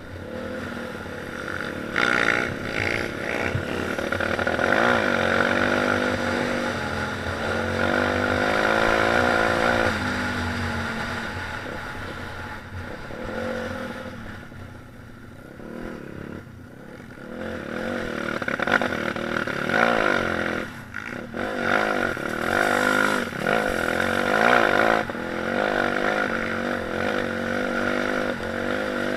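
Pit bike engine revving up and down as it is ridden, its pitch rising and falling over and over. It drops quieter for a few seconds near the middle, then picks up again with quick blips of throttle.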